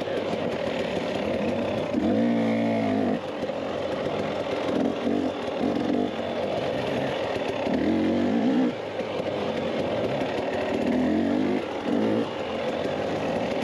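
Dirt bike engine being ridden, revving up and down with the throttle in short bursts every second or two over a steady rushing noise.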